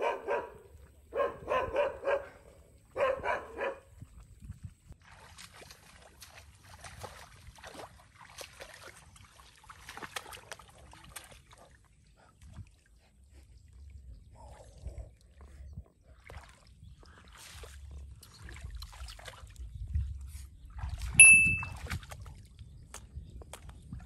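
Dog barking in three short runs in the first four seconds, then faint rustling and handling in grass, broken near the end by one short, sharp, high-pitched squeak, the loudest sound of the stretch.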